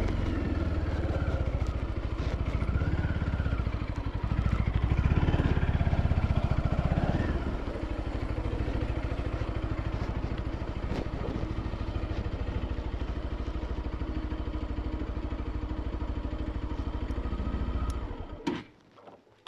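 Bajaj Pulsar NS200 single-cylinder engine running, louder for a few seconds, then steadier and lower, and cutting off abruptly near the end.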